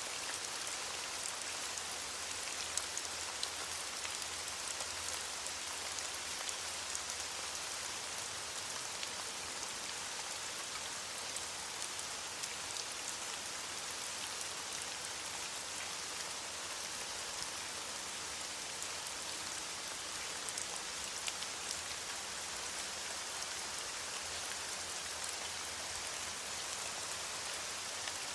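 Steady rain falling on leaves: a dense, even hiss of many small drops pattering.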